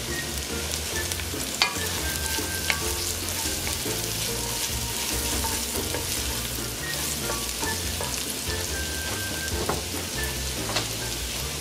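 Chopped vegetables and aromatics sautéing in hot oil, a steady sizzle, while a wooden spoon stirs them, with a few sharp knocks of the spoon against the enamelled pot.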